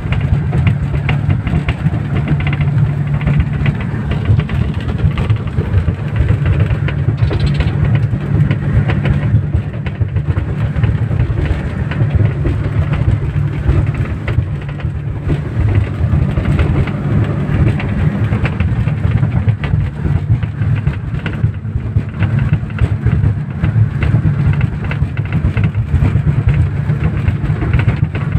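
Passenger speedboat's engines running steadily at cruising speed, a constant low drone under a dense hiss of rain and rushing water.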